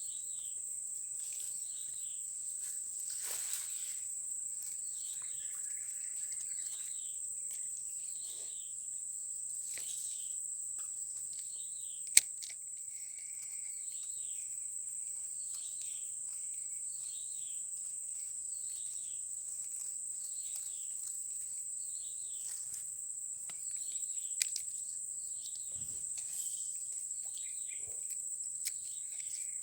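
Steady high-pitched drone of insects, with short falling chirps repeating about once a second beneath it. A single sharp click about twelve seconds in.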